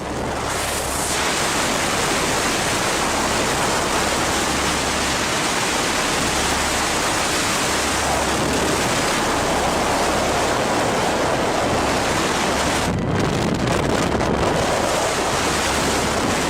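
Storm noise: a steady, loud rush of wind and driving water, with gusts buffeting the microphone.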